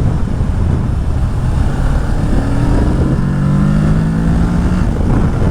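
Kawasaki Ninja 650's parallel-twin engine through a full Akrapovic exhaust, with a heavy low rumble while riding. About two seconds in the engine note climbs, drops once as the next gear goes in, and climbs again under acceleration.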